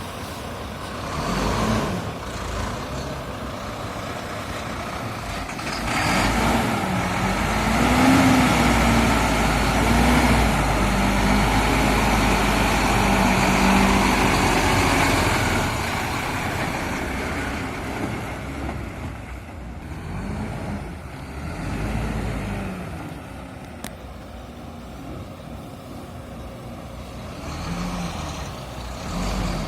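Truck engine running after being brought back to life with a boost from an extra battery. It is revved up from about six seconds in, held higher for around ten seconds, then settles back toward idle.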